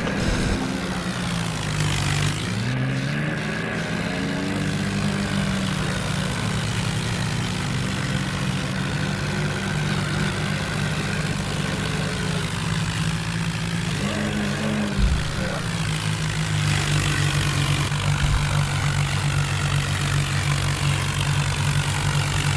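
Tractor diesel engine running steadily at a loud, constant level, its pitch dipping and recovering about two seconds in and again about fourteen seconds in.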